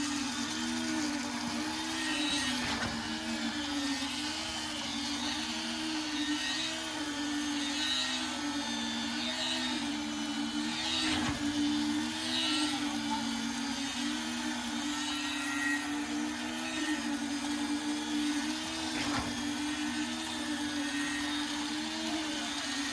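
A machine motor running steadily, its hum wavering up and down in a regular cycle, with a few short knocks over it.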